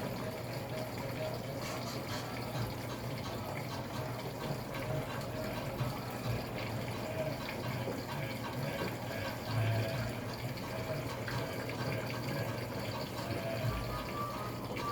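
Electrolux LAC13 13 kg washing machine filling its tub with water at the start of a wash cycle: a steady rush of incoming water with a low, constant hum.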